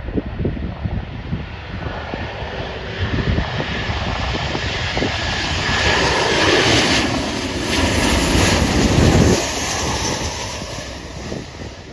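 Boeing 737-700 airliner arriving, its CFM56 jet engines growing louder, peaking about seven to nine seconds in with a falling pitch sweep as it passes, then fading. Wind buffets the microphone near the start.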